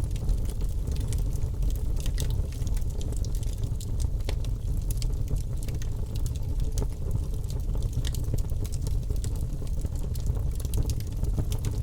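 Birch logs burning in a fireplace, crackling with many small irregular pops over a steady low rumble of the flames.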